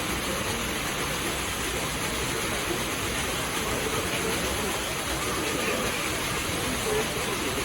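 Water pouring steadily from a leaking ceiling and splashing onto the floor below, an even rushing noise, with faint voices in the background.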